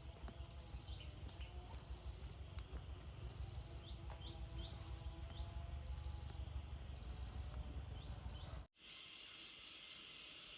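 Outdoor ambience: a low wind rumble on the microphone with short, repeated high chirps from birds or insects. About nine seconds in, after a sudden cut, a steady high insect drone takes over.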